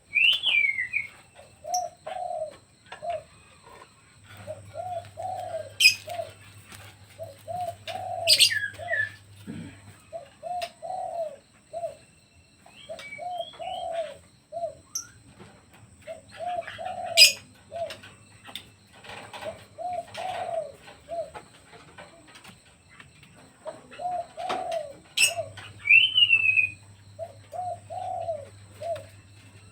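Pet doves cooing in repeated short phrases of low, rounded notes. A smaller bird gives brief higher chirps near the start and again near the end, and a few sharp clicks sound in between.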